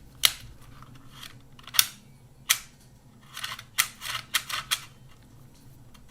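Shutter of a Kodak Ektar H35N half-frame film camera clicking as it is fired again and again without the film being wound on. The clicks are sharp, a few spaced about a second apart and then a quicker run of them about halfway through.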